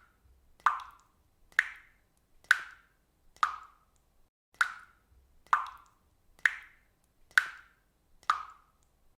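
Water dripping at a steady rate, about one drop a second, each drop a short, bright plop.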